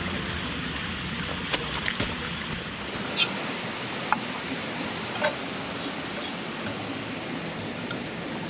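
A river running steadily, with a few short sharp clicks over it.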